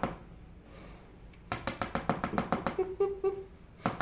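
Pet cockatiel making a rapid run of sharp clicks, about nine or ten a second, starting about a second and a half in and stopping shortly before the end.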